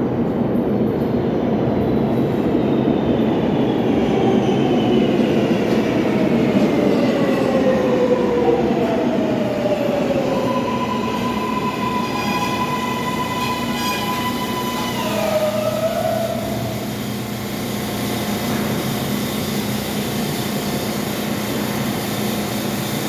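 New York City subway train on the L line pulling into the station: a loud rumble with whines that fall steadily in pitch as it slows. Steady high-pitched tones ring for a few seconds around the middle as it comes to a stop, then a steadier rumble while it stands.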